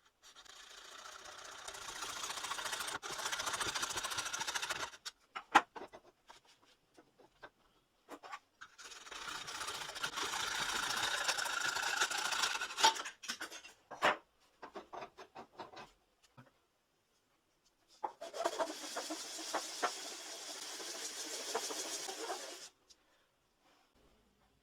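A small motorised tool running in three bursts of about four to five seconds, with a few clicks and knocks in the pauses between them.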